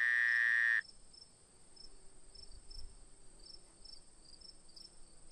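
A frog call: a steady, high-pitched call that cuts off sharply under a second in. After it come faint, evenly spaced ticks.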